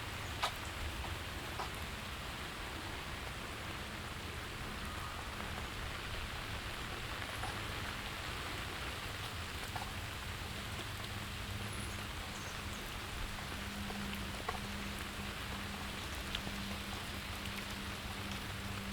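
Steady rain falling, with scattered drops ticking sharply on nearby surfaces. A faint low hum comes in and grows stronger over the last few seconds.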